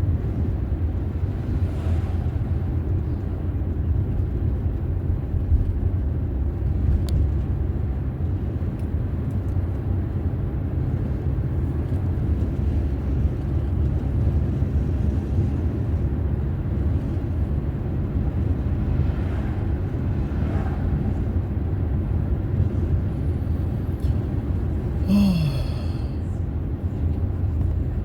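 Steady low rumble of a car driving along the road, engine and tyre noise. About 25 seconds in there is a short high-pitched sound over it.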